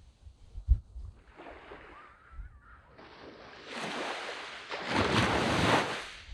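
Waves washing up on a sand beach, building from about four seconds in to the loudest wash just before the end, with low wind thumps on the microphone in the first second.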